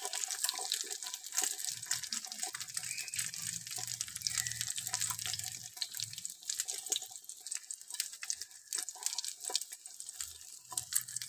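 Egg omelette batter sizzling in hot oil on a flat tawa griddle: a steady hiss with many small crackles and pops, easing slightly in the second half.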